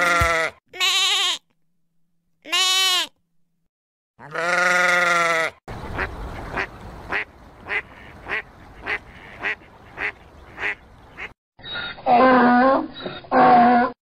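A few drawn-out livestock calls, then white domestic ducks quacking, about two quacks a second for some five seconds, then a donkey braying loudly in two long pulls near the end.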